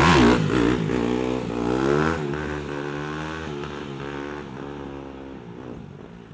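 Dirt bike engine revving hard and accelerating away, its pitch rising and dropping with throttle and gear changes, fading steadily as the bike rides off.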